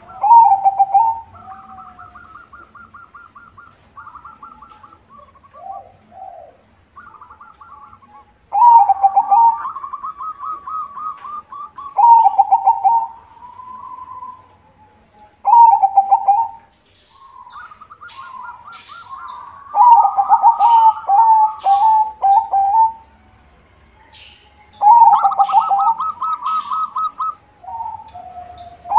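White zebra dove (perkutut) singing: loud phrases of rapid staccato cooing that come every few seconds, with softer, higher trilled coos between them.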